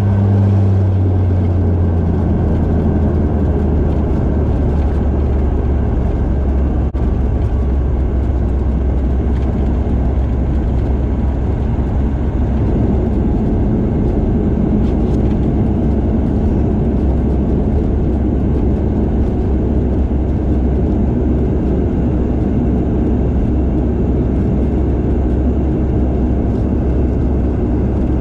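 Cabin sound of a Bombardier DHC8-Q400's turboprop engines and propellers running at low power as the airliner taxis after landing. A low propeller drone drops in pitch in the first couple of seconds, then holds steady under a broad engine rush.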